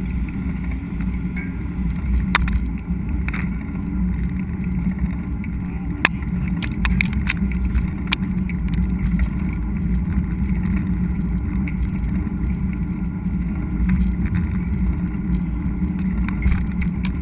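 Steady low rumble of wind and trail noise on a mountain-bike GoPro while riding, with scattered sharp clicks and rattles from the bike over the rough ground.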